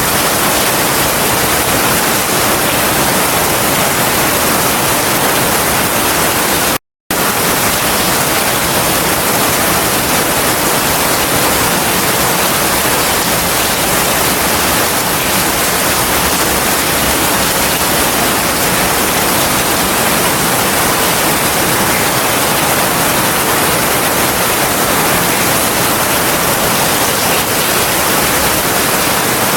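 Heavy rain falling steadily, a dense even hiss with no thunder. The sound cuts out completely for a split second about seven seconds in, then resumes unchanged.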